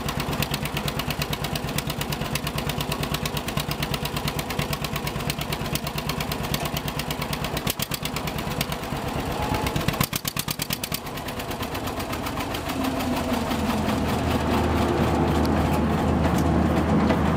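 John Deere 630 two-cylinder tractor engine running with an even, slow popping beat. About twelve seconds in it is throttled up, rising in pitch and getting louder.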